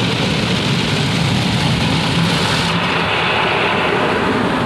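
Mark VII ChoiceWash XT automatic car wash at work on a pickup truck: spinning wash brushes and water spray making a steady wash of noise. The highest hiss drops off a little under three seconds in.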